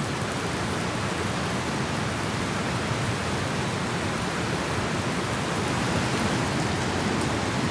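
Steady hiss of heavy rain falling on a tent.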